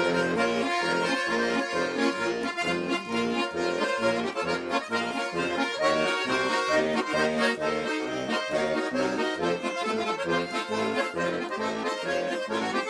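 Accordion music played alone, with sustained chords and melody over a regular oom-pah bass beat: an instrumental break between the sung verses of a folk-style song.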